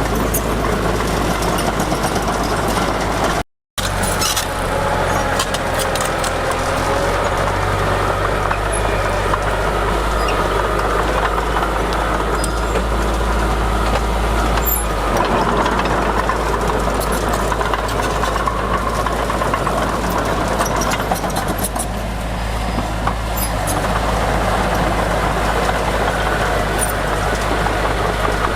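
Heavy diesel earthmoving machinery running steadily with a deep engine hum and scattered metallic clanks and rattles. The sound cuts out for a moment about three and a half seconds in.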